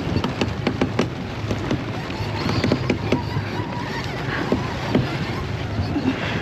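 Wind and water noise aboard a sailboat under way in strong wind, with irregular clicks and knocks throughout.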